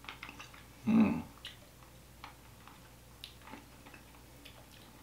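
Soft mouth sounds of chewing dense, very chewy fruit gums: scattered small clicks and smacks, with one louder, brief low sound about a second in.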